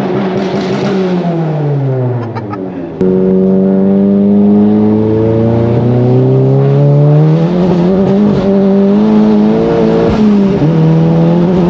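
Volkswagen MK7 GTI's turbocharged 2.0-litre four-cylinder with an IS38 turbo and aftermarket exhaust under hard driving. The engine note falls away, then after a sudden jump in loudness about three seconds in it pulls steadily up in pitch under acceleration and holds, with a brief dip near the end.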